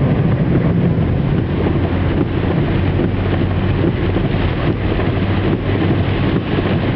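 A car driving through heavy storm rain: a steady rush of rain and tyres on the wet, flooded road over the low hum of the engine.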